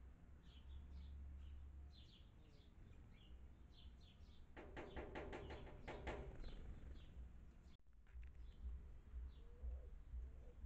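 Birds chirping faintly with short, high, falling notes repeated throughout. About halfway through there is a louder, rapid chattering call that lasts under two seconds.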